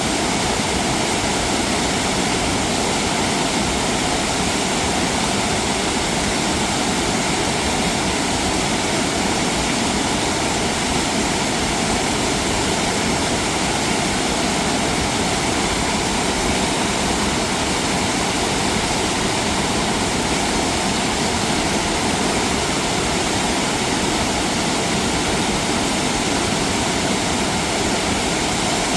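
Rushing water, a steady unbroken rush of water pouring over rocks.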